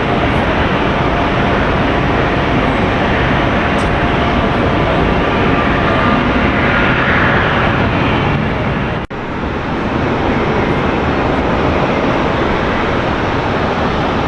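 Jet airliner engines running loudly as a plane passes close by, a steady, even roar. The sound drops out for an instant about nine seconds in and then resumes.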